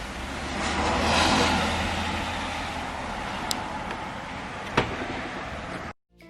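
A vehicle passes by on the road, its tyre and engine noise swelling about a second in and fading away over a steady low hum. Two sharp clicks come later.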